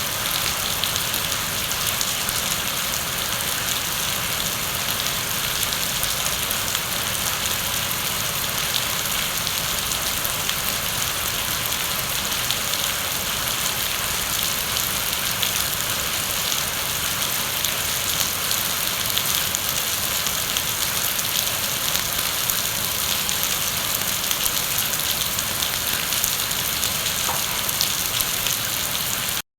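Heavy rain falling steadily: a dense, even hiss with the fine patter of individual drops. It cuts off suddenly at the very end.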